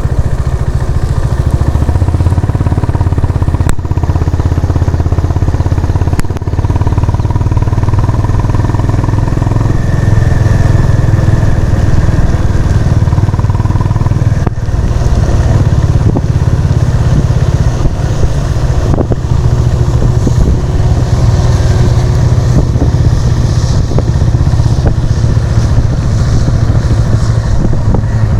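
Honda CB350 RS's single-cylinder engine running steadily while riding, its low exhaust note loud throughout, with a few brief dips in the sound.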